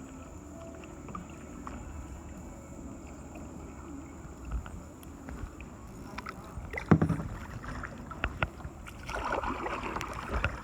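Kayak paddling on a river: paddle strokes in the water with scattered small clicks, one sharp knock a little past the middle, and a stretch of splashing near the end.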